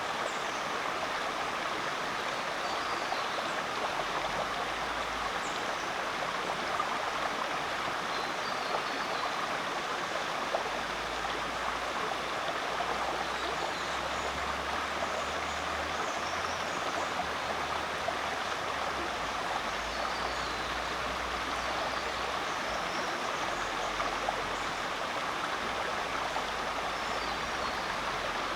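Rainforest creek flowing: a steady, even rush of running water.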